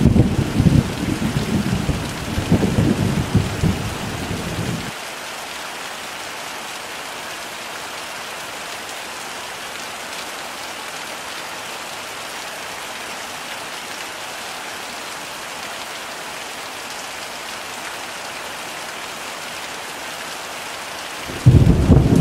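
Heavy rain falling steadily. Rolling thunder rumbles for the first few seconds and cuts off sharply about five seconds in, then starts again abruptly near the end.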